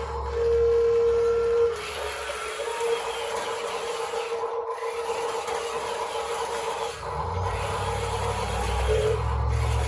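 Electric hydraulic pump of a scale RC excavator whining steadily, loudest for the first two seconds, over a rasping scrape of working in dirt. A lower hum joins about seven seconds in.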